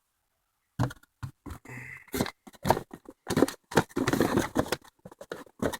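Cardboard firework boxes and packaging being handled and moved: a quick run of knocks, clicks and scrapes starting about a second in.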